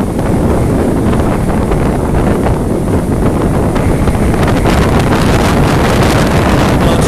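Strong storm wind blasting the microphone, a loud, steady low rumble, with breaking sea waves mixed in beneath it.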